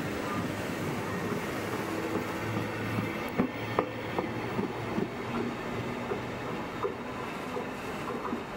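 Flixtrain passenger coaches rolling past and pulling out of the station: a steady rumble of wheels on rails, with a run of sharp clacks from the wheels over the track about three to five seconds in.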